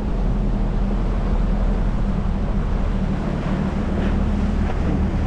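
Small speedboat's motor running steadily under way, with wind buffeting the microphone.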